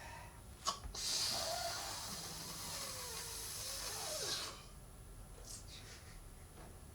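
A long breathy hiss of a person's breath on a stage microphone, lasting about three and a half seconds and cutting off sharply, after a short click about a second in.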